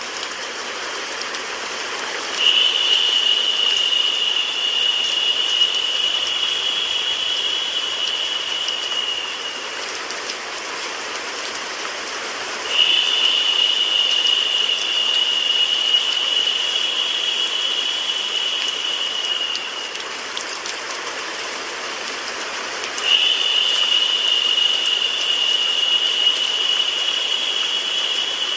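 Steady rain mixed with white noise, an even hiss. A higher-pitched hiss swells in three times, about every ten seconds, and lasts about seven seconds each time.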